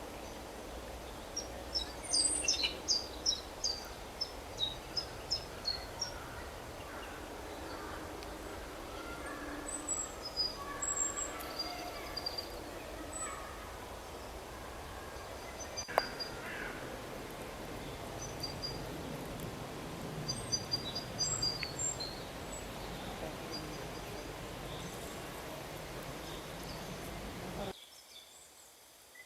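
Small birds chirping and calling over a steady outdoor background hiss, with a rapid run of high notes in the first few seconds and scattered calls after. Near the end the background drops away suddenly, leaving a few faint chirps.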